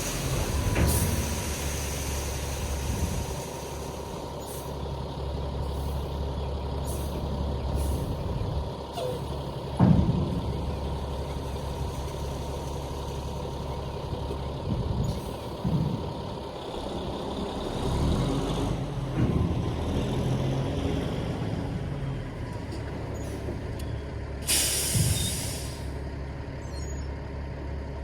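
Heavy diesel truck engine running steadily, with a sharp knock about ten seconds in and several clunks. Near the end comes a short hiss of air from the air brakes.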